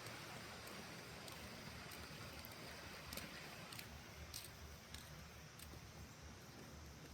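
Quiet outdoor background with faint, irregular clicks and soft low thumps of someone walking along a path.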